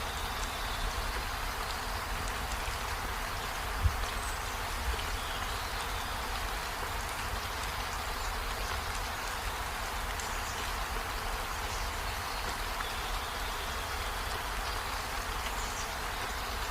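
Steady rain falling on trees and a window. A single sharp drop knocks about four seconds in, and faint short high chirps are heard here and there over the rain.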